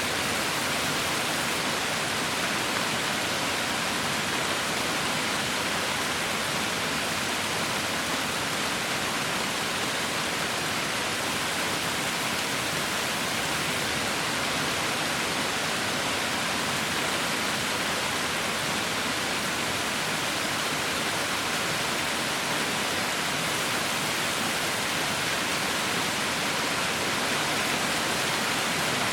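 Heavy rain falling steadily, a dense even hiss of countless drops with no thunder or separate drip sounds.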